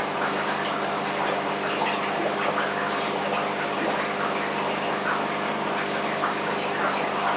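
Aquarium filter equipment running: water bubbling and trickling over a steady motor hum.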